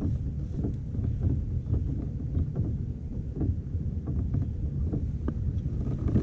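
Wind buffeting the camera microphone as a steady low rumble, with scattered small knocks and clicks from the kayak and gear.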